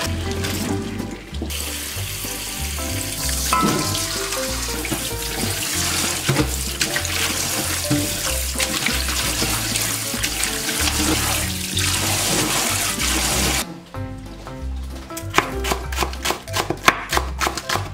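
Tap water running and splashing into a metal bowl while blanched butterbur stalks are rinsed by hand. Near the end the water stops and a knife chops quickly on a bamboo cutting board. Background music with a steady bass line plays throughout.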